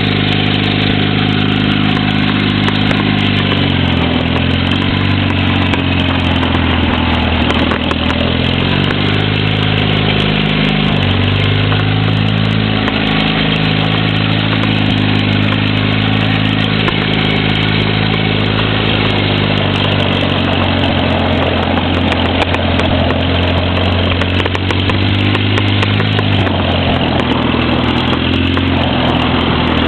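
1937 Eimco Power Horse tractor's engine running, its pitch dropping and rising several times as the engine speed changes.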